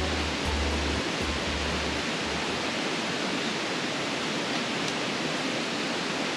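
Steady rushing noise, even across all pitches, like running water or rain, with low bass pulses that stop about two and a half seconds in.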